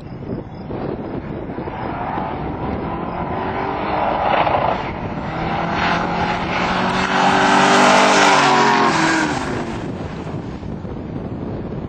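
A race car's engine pulling hard as it passes, loudest about eight seconds in, its note falling as it moves away. Wind buffets the microphone.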